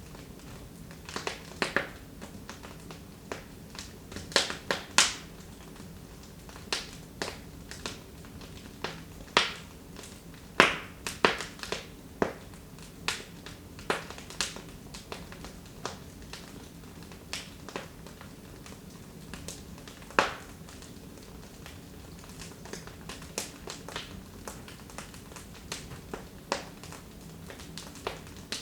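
Wood fire burning in a fireplace, crackling with irregular sharp pops and snaps, a few every couple of seconds, some much louder than the rest, over a faint steady background.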